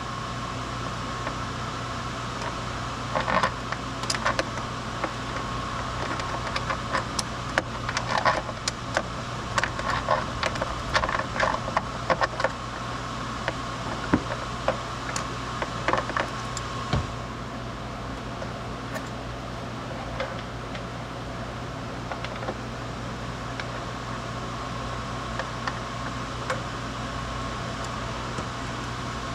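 Scattered clicks and light clinks of hand tools and parts being handled during work in the engine bay, over a steady mechanical hum. The clicks are busiest in the first half and thin out later.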